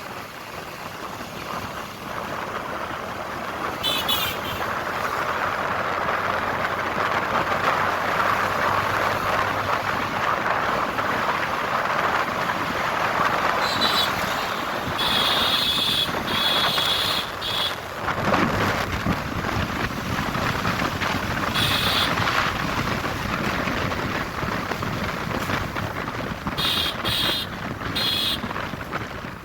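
Wind rushing over the microphone of a moving motorbike, with road noise, building over the first few seconds. Short high-pitched beeps cut through several times, the longest run about halfway through.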